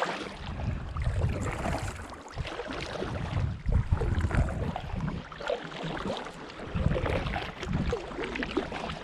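Paddles dipping and splashing as a boat is paddled across open water, in uneven strokes, with wind buffeting the microphone.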